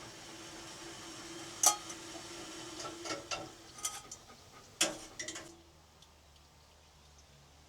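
A few sharp clicks and knocks, loudest about two and five seconds in, over a faint steady hum that drops away about halfway through.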